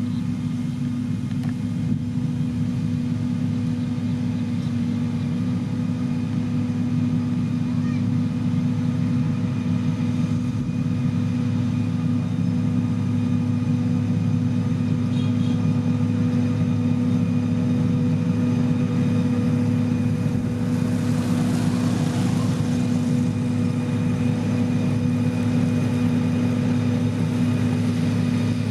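Heavy construction machine's diesel engine running steadily at a constant pitch, with a brief rushing hiss about two-thirds of the way through.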